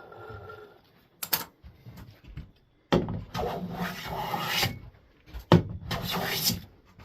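Hand plane shaving along the edge of a wooden board, truing the edge square for a glued edge joint: a short stroke about a second in, then two longer strokes with a sharp knock between them.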